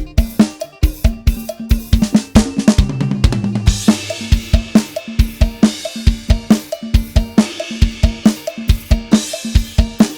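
Sampled drum kit built to sound like a live kit, playing a steady kick-and-snare beat. About two seconds in a tom fill falls in pitch and lands on a cymbal crash near four seconds, after which the beat carries on under ringing cymbals, with another crash near the end.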